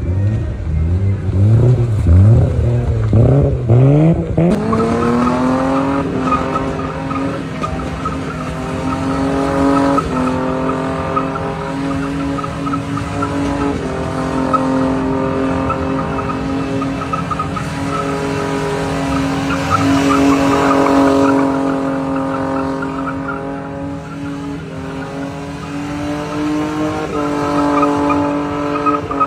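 Car engine revving, its pitch climbing over the first few seconds and then held at high revs for the rest, with tyres squealing under wheelspin.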